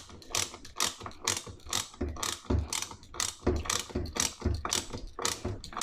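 Ratcheting hand tool clicking steadily, about four clicks a second, as a bolt is driven back in.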